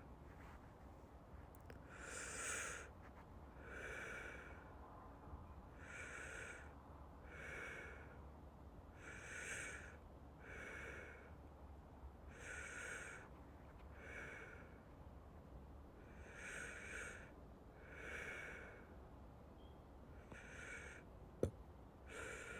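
Slow, regular breathing close to the microphone, soft in-and-out breaths about every second and a half, with one sharp click near the end.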